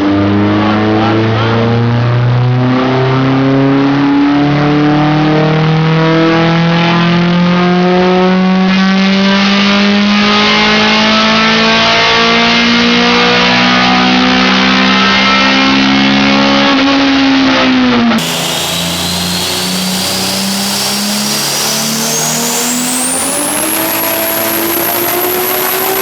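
A car engine under full load on a dyno, its pitch climbing slowly and steadily for about eighteen seconds before the throttle is closed and it drops off. Then a second car on the dyno, with a high whine rising and then holding steady while the engine pitch climbs again.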